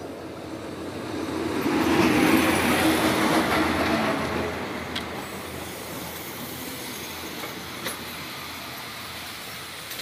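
Diesel-electric locomotive-hauled passenger train passing close by. The noise swells to its loudest about two to four seconds in as the locomotive goes past, then settles to a steady rolling rumble of the coaches, with a couple of sharp clacks from the wheels.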